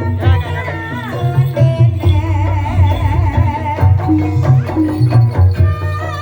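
Traditional Banyumasan ebeg accompaniment music: a steady drum pattern under a wavering, bending melody and ringing pitched notes.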